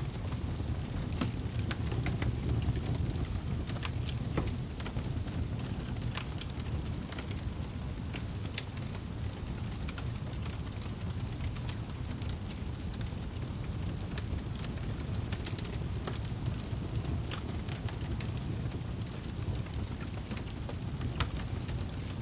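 Wood fire burning in a fireplace, crackling: a steady low rumble with frequent sharp pops and snaps at irregular moments.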